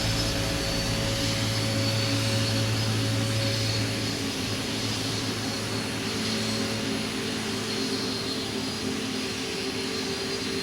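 Jet engine noise of a British Airways Boeing 747-400 passing by: a steady rushing that slowly fades.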